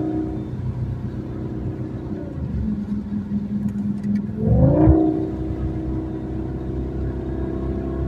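Audi S8's V10 engine and exhaust running. The note drops about two seconds in and holds low, then a quick, sharp rev sweeps up to the loudest moment near the middle before settling back to a steady, higher note.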